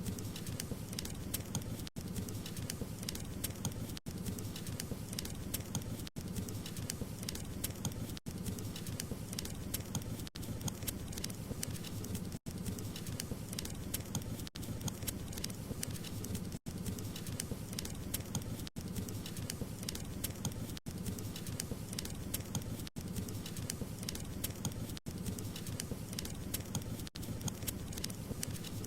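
Wood fire burning with a steady rush and dense small crackles and pops. Brief dropouts cut the sound about every two seconds.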